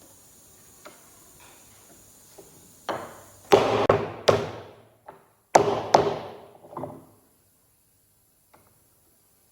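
Heavy knocks on wood, like hammer blows: a few light taps, then two bursts of hard strikes, one about three and a half seconds in and one about five and a half seconds in, each dying away briefly.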